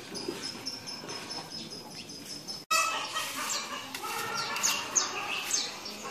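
Birds calling again and again, with short high chirps and falling calls. The sound drops out for an instant about two and a half seconds in and comes back louder.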